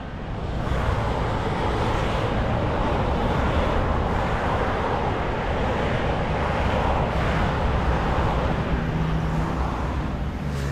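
Steady rushing outdoor noise with a low rumble underneath, of the kind made by a passing vehicle or aircraft, swelling up about half a second in and then holding.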